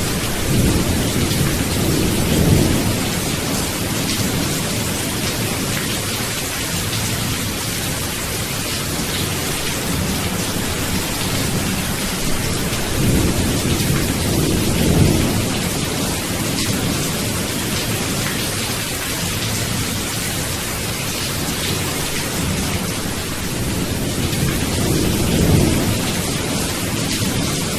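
Steady rain, with rolling thunder rumbling three times: near the start, about halfway through and near the end.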